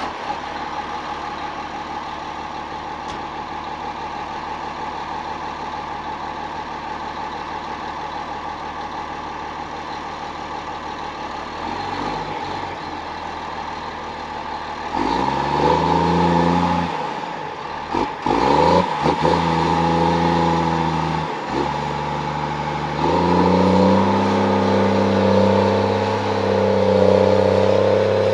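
Engine idling steadily after a start, then revved up and down in several steps from about halfway through, ending held at a higher speed.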